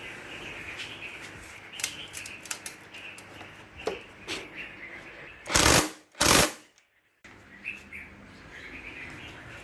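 Outdoor background of birds and insects chirping, with a few sharp clicks and two short, loud blasts of noise a little past halfway.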